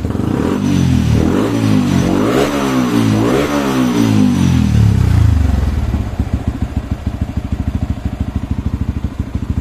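Yamaha WR 155 R's single-cylinder engine, warm at about 76 °C, revved up and down a few times, then dropping back to a steady idle about six seconds in.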